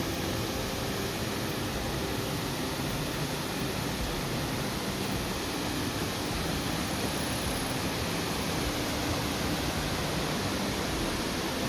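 Ryumon Falls, a 46-metre waterfall, with its falling water making a steady, even rush of noise.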